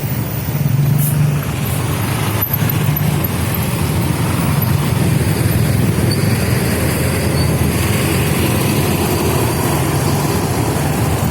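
Diesel engine of a Big Bird tour bus running steadily, a continuous low rumble.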